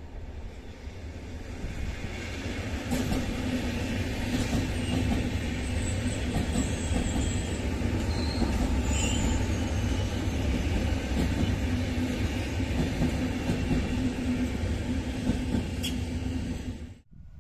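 Two coupled Renfe Class 470 electric multiple units passing close by: the rumble of wheels on the track builds over the first couple of seconds, then holds loud with a steady hum and a few brief high squeals about halfway through. It cuts off suddenly near the end.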